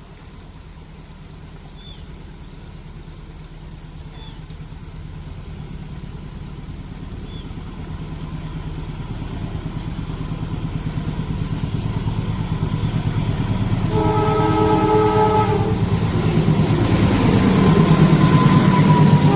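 Diesel-hauled train approaching, its engine hum growing steadily louder. A short, broken horn blast sounds about two-thirds of the way in. Near the end it gives way to the loud rush and rumble of the train arriving.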